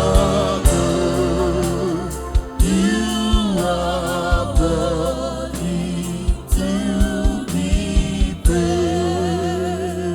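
Gospel worship song: voices singing with wavering, held notes over a band with a steady bass and keyboard, and drum hits.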